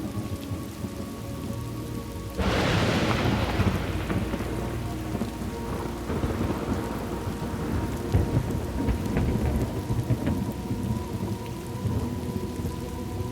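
Thunderstorm: steady rain hissing over a low rumble of thunder. About two and a half seconds in, a sharp thunderclap breaks and rolls away over several seconds.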